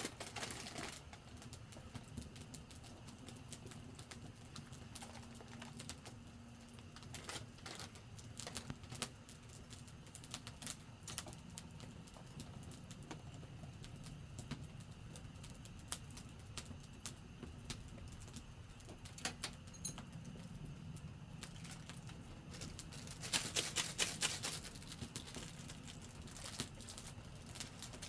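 Wood campfire crackling, with irregular sharp pops and a denser flurry of clicking about 23 seconds in.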